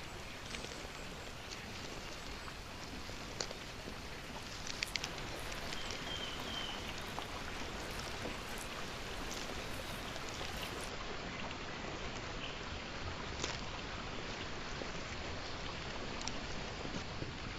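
Steady rain falling, with scattered sharp drops and drips.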